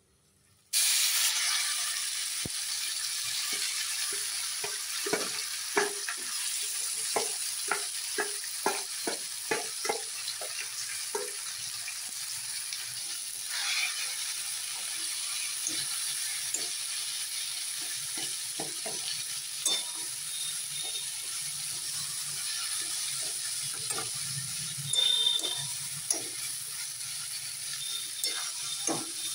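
Mashed fish-and-potato filling sizzling as it sautés in hot mustard oil in a kadai, with a metal spatula scraping and tapping against the pan as it is stirred. The sizzle starts suddenly about a second in; the spatula strikes come about twice a second for a stretch, then more scattered.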